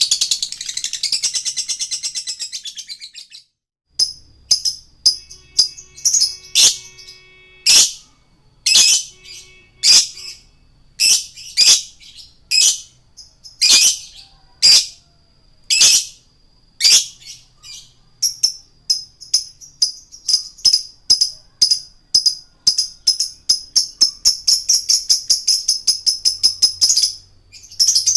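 Male lovebird singing: a rapid, high-pitched chatter that fades out over the first few seconds, then after a short break a string of sharp high chirps about one a second, which speed up into a fast run of chirps near the end.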